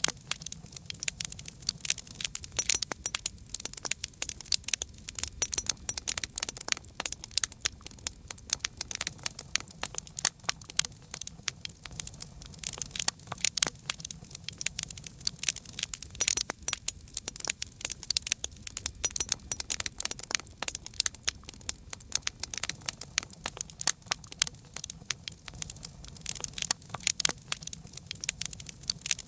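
Campfire crackling steadily: a dense, irregular stream of sharp pops and snaps from burning wood, with a faint low rumble beneath.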